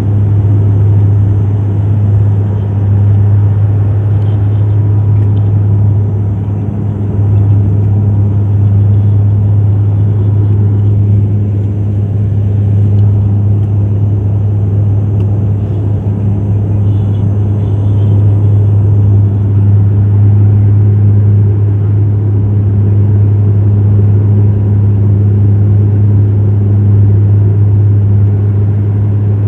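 Loud, steady low rumble inside an airliner cabin during the landing approach: engine and airflow noise with a constant low hum.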